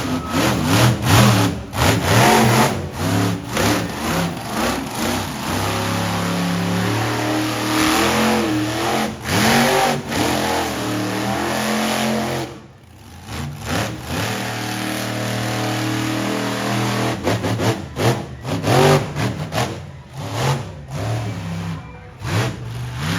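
Monster truck engine being revved hard, with repeated throttle blips and two long stretches held steady at high revs. The engine noise drops away briefly a little past the middle, then picks up again.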